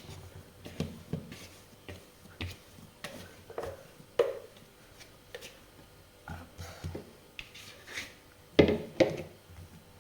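Hands handling risen pizza dough on a floured worktop: irregular soft taps and thumps, with the loudest knocks about four seconds in and again near the end.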